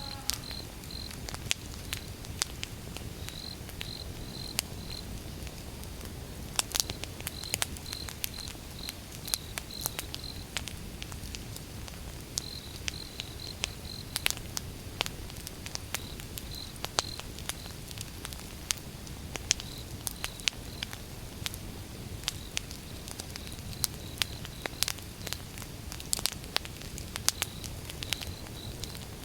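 Wood fire burning, with irregular crackles and sharp pops over a steady low rumble. An insect chirps in short repeated trains throughout.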